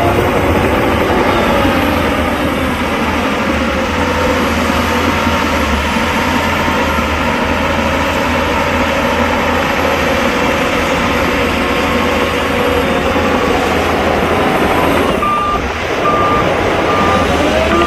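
Heavy diesel earthmoving machinery running steadily, its engine pitch rising and falling a little. Near the end a reversing alarm starts beeping at an even pace, a bit more than once a second.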